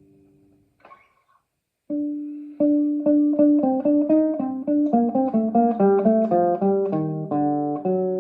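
Solo classical guitar. A chord rings and fades, a brief faint noise comes about a second in, and after a short silence a run of plucked single notes starts at about three or four a second.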